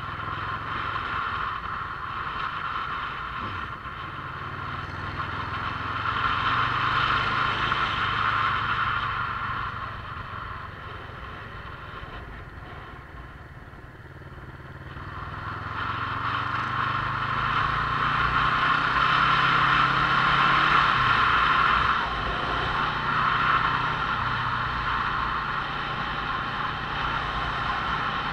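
Motorcycle engine running on the move, rising in pitch and loudness as it accelerates. It eases off about halfway through, then accelerates again.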